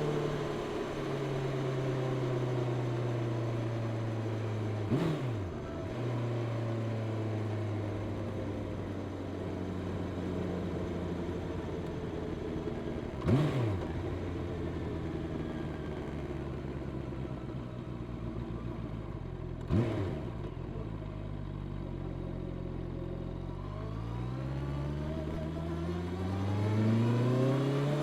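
Honda CB650R inline-four engine through its stock exhaust, heard from the rider's seat: dropping in pitch as it slows at first, then cruising steadily, then rising in pitch as it accelerates near the end. Three brief loud bursts of noise cut through, about 5, 13 and 20 seconds in.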